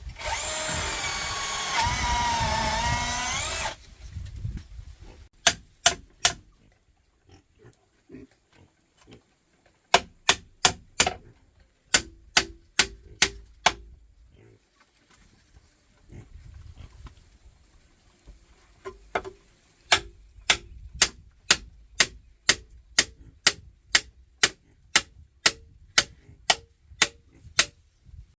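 A loud wavering, pitch-bending sound stops abruptly about four seconds in. After it come runs of sharp knocks, about two a second by the end, with soft low pig grunts between them.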